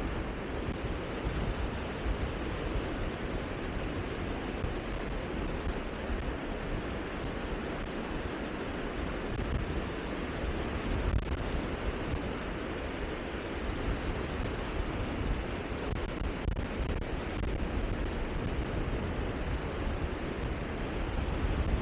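Steady rushing wind, buffeting the microphone with a low rumble.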